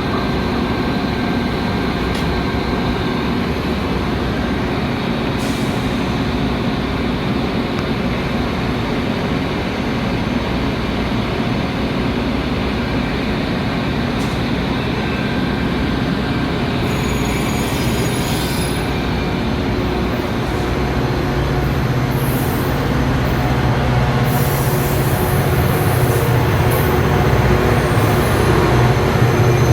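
Metra commuter train running on the rails, with steady rolling noise and brief high wheel squeals in the second half. A low, engine-like drone builds in the last third and grows louder toward the end.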